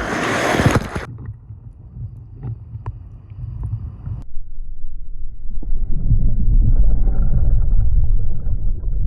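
Wind buffeting the microphone with a low rumble, and a loud rushing burst in the first second. The rumble swells again for the last few seconds.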